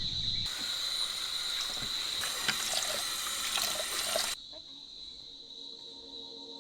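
Kitchen tap running into a sink for washing up, with a few light clinks. It starts about half a second in and shuts off after about four seconds. A steady high insect chirr, from crickets, runs behind it.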